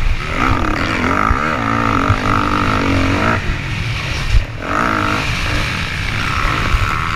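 Motocross dirt bike engines revving, the pitch rising and falling over and over, with a short drop about four and a half seconds in.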